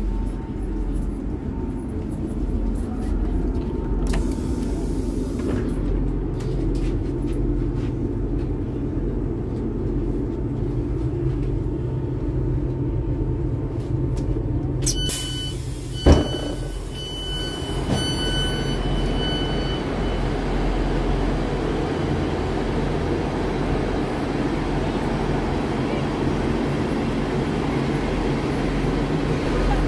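Class 158 diesel multiple unit standing with its underfloor diesel engine idling in a low, steady hum. About halfway through, the door open button is pressed: a sharp clunk, then a few seconds of repeated electronic beeping as the passenger door opens. After that the open doorway lets in a broader, steady station background noise.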